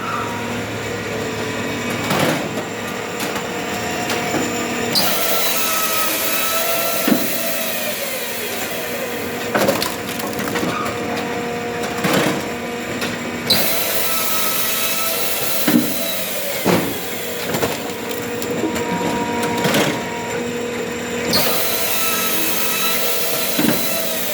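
Engine-driven log splitter splitting oak firewood: a steady machine drone whose pitch sags and recovers as it loads up, with sharp cracks of the oak splitting every few seconds.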